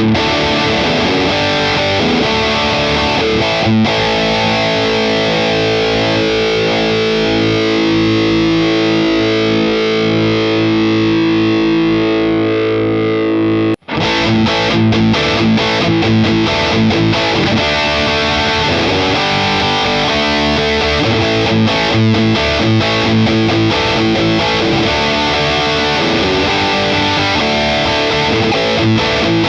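Electric guitar with a Seymour Duncan bridge humbucker played through a high-gain distorted amp tone: riffing, then a chord left ringing for several seconds. It cuts off suddenly about halfway through, and busy riffing with short stopped notes resumes.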